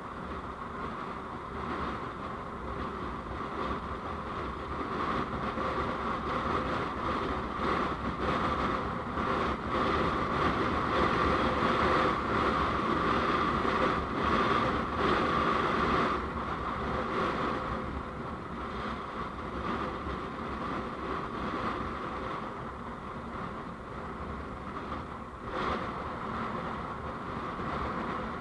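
Steady road and wind noise of a vehicle on the move. It grows louder through the middle and eases off again.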